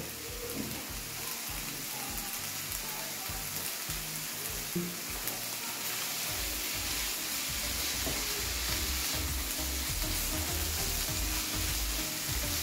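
Onion-tomato masala sizzling in oil in a non-stick frying pan, with a flat spatula scraping and stirring through it. The stirring strokes come thicker from about halfway through.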